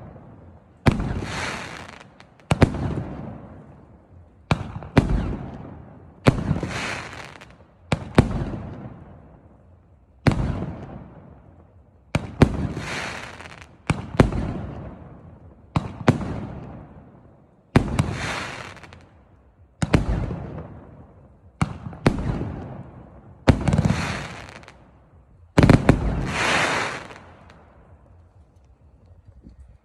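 Multi-shot fireworks cake firing: a shot about every two seconds, each a sharp bang followed by a crackling, hissing burst that fades away. The shots stop a couple of seconds before the end, leaving only the fading tail.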